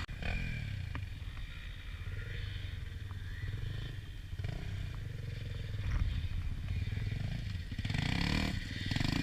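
Motorcycle engine running, its note wavering up and down with the throttle.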